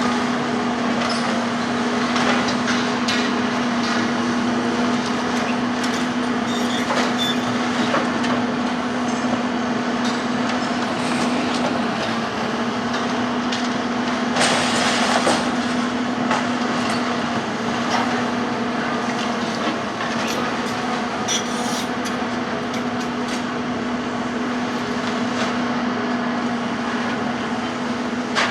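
Heavy demolition machinery running steadily with a constant hum, with scattered knocks and crunches of breaking building material and a louder crashing burst about fifteen seconds in.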